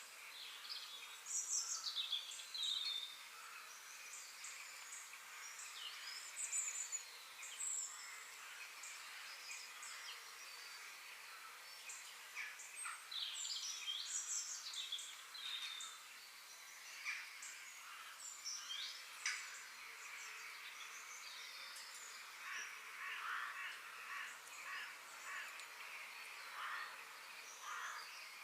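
Several birds singing and chirping in overlapping short calls, over a steady background hiss.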